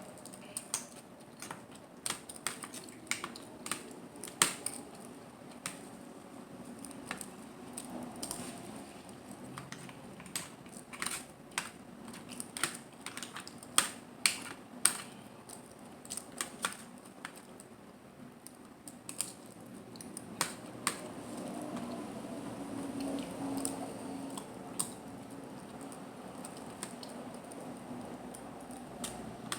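Irregular sharp clicks and taps of mussel and clam shells being handled and pulled apart while eating, coming thick and fast for about the first half and thinning out after that.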